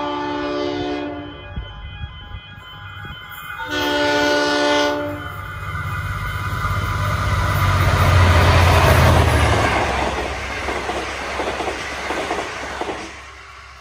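Diesel passenger train passing through a station: two blasts of its multi-tone horn, one at the start and one about four seconds in, then the engine hum and wheels clattering over the rails build to a peak as it runs by. The sound cuts off abruptly near the end.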